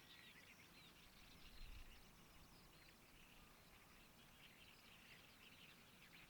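Faint, dense chorus of many small bird calls, chirping continuously over a low outdoor hiss, with a brief low rumble about one and a half seconds in.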